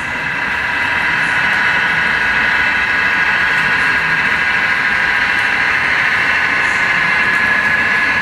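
OO gauge model of a Class 153 diesel railcar running on the layout: a steady, high-pitched mechanical running sound.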